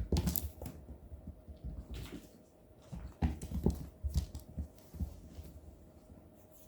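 Cats playing on the floor: irregular thumps and scuffles, in bursts near the start and again around three to four seconds in, dying down near the end.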